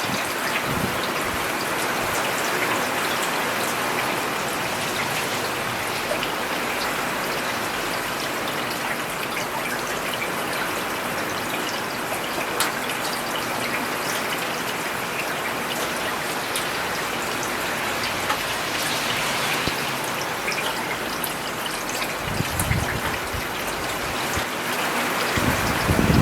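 Steady rain falling on a paved road: a dense, even patter with scattered sharper drip ticks, and a brief deeper rush swelling up about 22 seconds in.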